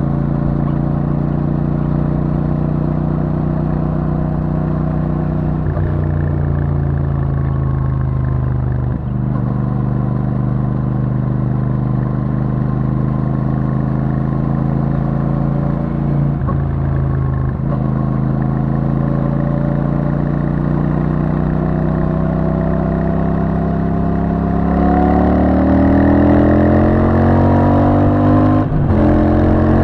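Royal Enfield Super Meteor 650's parallel-twin engine through its stock exhaust, cruising at steady revs. About five seconds before the end it climbs in pitch and gets louder as the bike accelerates, with a brief break in the sound near the end.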